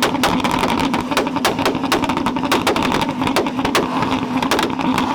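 Tuned car engine held on a two-step rev limiter, firing a rapid, uneven string of sharp bangs and pops from the exhaust, several a second, over a steady engine drone.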